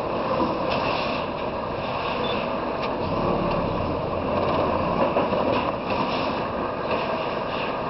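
Steady, loud running noise of heavy machinery, with scattered clanks and rattles.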